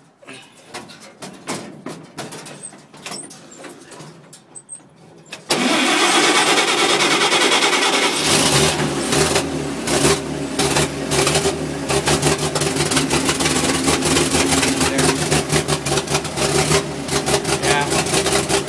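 A few faint clicks, then about five seconds in the old cab-over truck's engine is cranked by the starter. It catches about two seconds later and runs on steadily while still cold.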